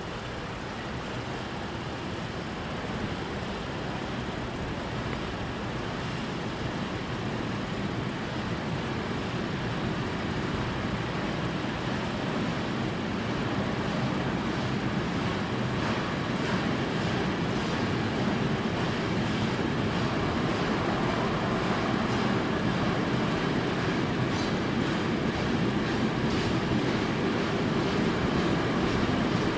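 Freight train passing, a steady rumble of wagons on the rails that grows louder, with a run of repeated clicks from about halfway through.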